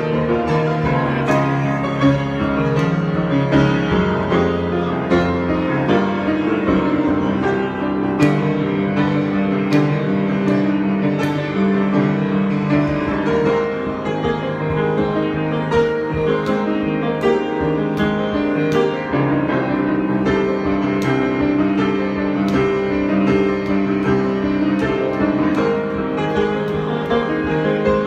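Solo piano improvisation: chords held and ringing, with new notes struck every second or so.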